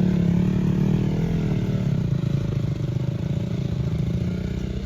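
Motorcycle engine running steadily at low revs, its sound slowly growing quieter.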